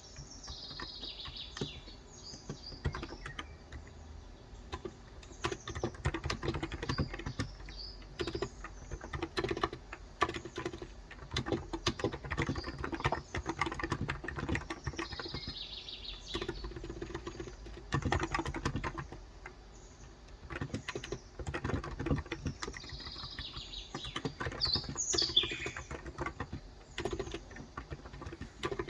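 Typing on a Cox Endeavour tenkeyless keyboard with 35 g electrostatic capacitive switches: irregular runs of soft key strokes with short pauses between them. Small birds chirp in the background at the start, about halfway through and again near the end.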